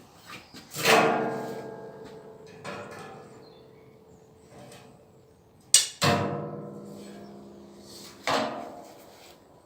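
Steel parts clanging four times in a metal fabrication workshop, each clang ringing on with a bell-like tone that fades over a second or more.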